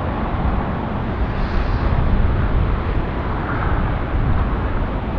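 Jet airliner engines: a steady, loud rushing noise that swells slightly a couple of times.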